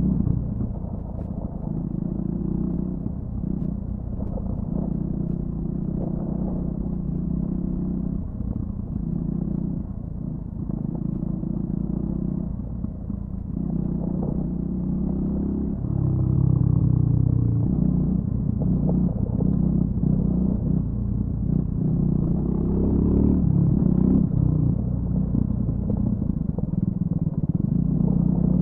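Triumph Scrambler 400 X's single-cylinder engine through its stock exhaust, ridden off-road with the throttle opening and closing. The engine note keeps rising and falling and grows louder about halfway through.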